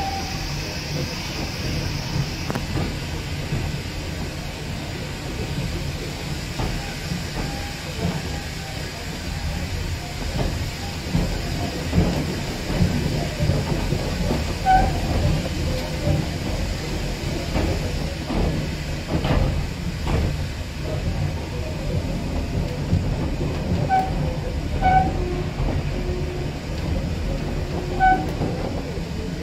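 Autocoach rolling along the track with a steady low rumble, its wheels knocking over rail joints and pointwork, with a few short high squeaks in the second half.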